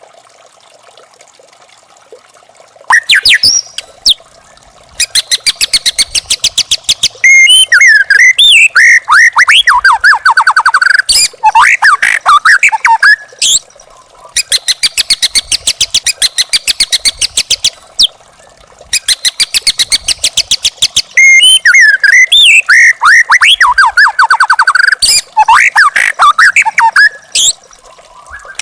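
White-rumped shama singing: fast runs of evenly repeated notes alternating with loud whistled and warbled phrases, starting about three seconds in after a near-quiet opening.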